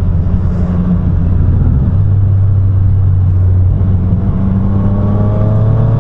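Triumph Street Triple RS's three-cylinder engine running under way, with wind rushing past. The engine note drops slightly about two seconds in as the bike slows for a bend, then rises steadily near the end as it accelerates out.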